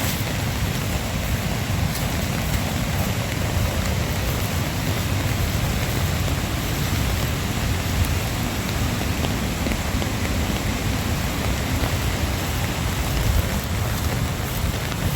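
Steady, loud wash of falling water, heavy rain and cascading water blending into one continuous noise with a strong low rumble.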